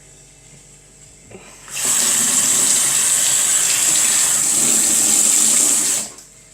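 Kitchen sink tap running: water turned on about two seconds in, flowing steadily for about four seconds, then shut off.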